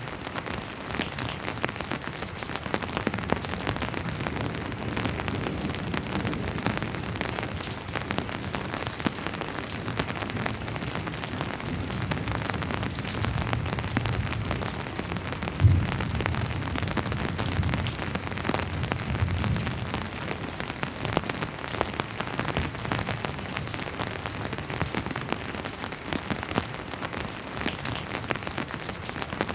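Steady rain falling, with the patter of individual drops all through. Through the middle comes a low rumble of distant thunder, with a sudden low thud about halfway.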